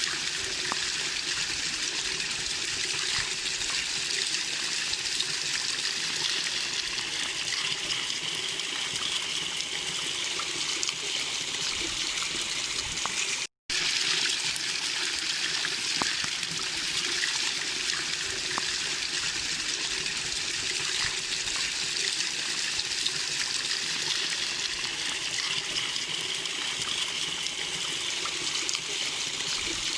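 Small waterfall splashing and rushing steadily. The sound drops out completely for a split second about 13 seconds in, then resumes unchanged.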